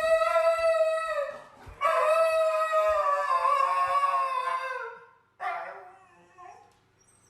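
A dog howling in long, drawn-out howls. One ends about a second in, a longer one follows and drops in pitch as it ends, and a shorter, fainter howl comes after it.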